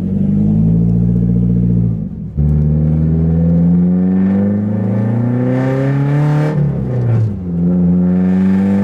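Straight-piped Nissan 240SX (S13) accelerating hard, the loud exhaust note rising in pitch through the gears with an upshift about two seconds in and another around seven seconds in.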